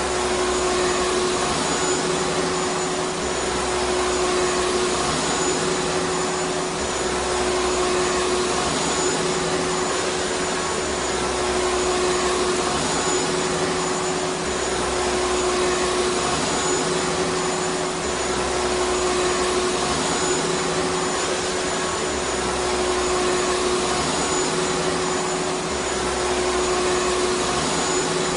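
Vacuum cleaner running steadily: an even rushing noise with a constant whine from the motor.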